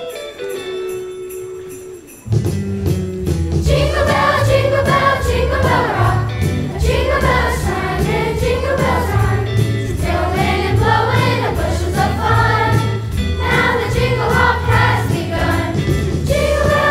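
Chorus singing a Christmas song over an accompaniment with jingle bells and a steady bass beat. A single held note gives way about two seconds in to the loud entry of the band part, and the voices come in a second later.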